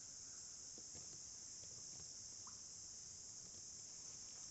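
Steady, high-pitched chorus of insects in the background, with a few faint ticks.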